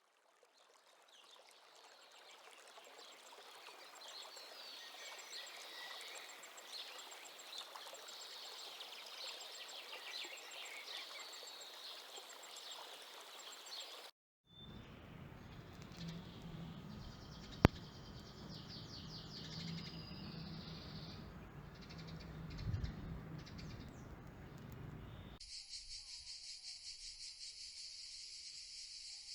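Faint outdoor ambience with small birds chirping. After a cut there is a low hum and a single sharp click. In the last few seconds a steady, pulsing high insect trill sets in, like a cricket.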